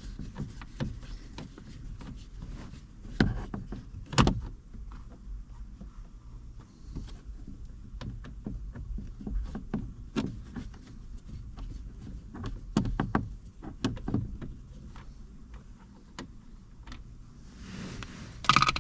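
Hand tools and plastic trim being worked on a car's steering column: scattered clicks, knocks and scraping as screws are backed out and plastic covers are handled, with a sharp knock about four seconds in and another near the end.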